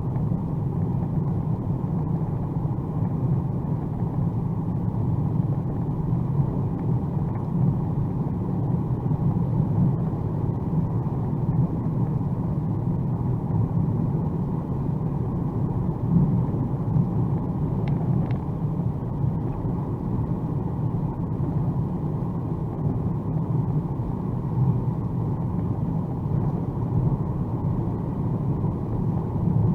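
Steady low rumble of a 2021 Mercedes-AMG A35 4Matic+ driving at speed on a rain-soaked motorway: tyre and road noise with the engine underneath. Two faint ticks come about eighteen seconds in.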